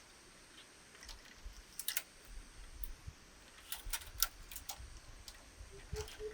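Scattered light clicks and knocks at irregular intervals, in small clusters about two seconds in and about four seconds in, over a faint low rumble.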